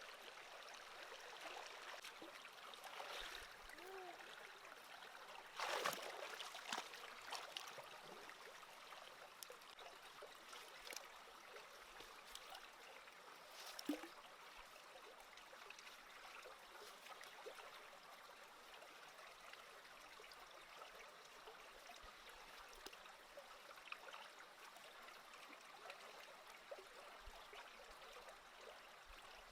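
Faint trickling of a small stream, running steadily, with a few brief louder noises about six seconds in and again near the middle.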